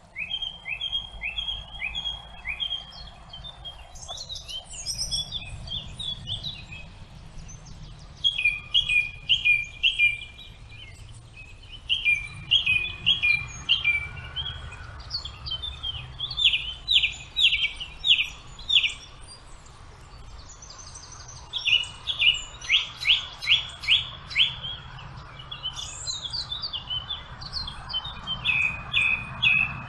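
Songbirds singing in a forest, phrase after phrase of rapid repeated chirps, over a low steady background rumble.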